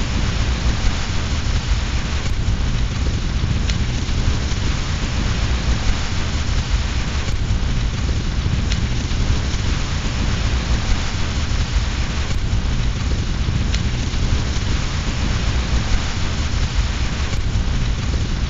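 Steady rain with a deep low rumble under it, and a few faint crackles from a fireplace fire.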